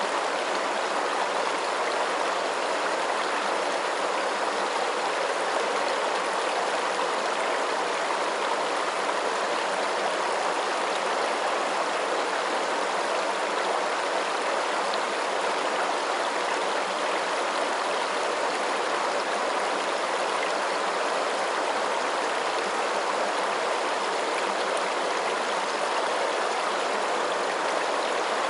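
Running water, a steady, even rush with no separate splashes or drips and little low rumble.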